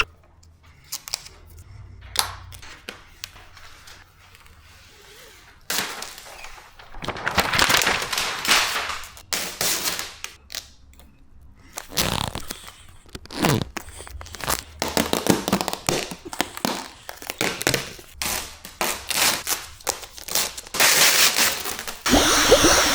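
Vinyl wrap film being worked onto a car's fender: repeated stretches of crackling and rustling with sharp snaps and knocks, and quieter gaps in between.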